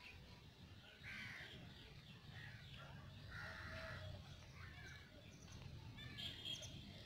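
Faint harsh bird calls, several over a few seconds, above a low steady rumble.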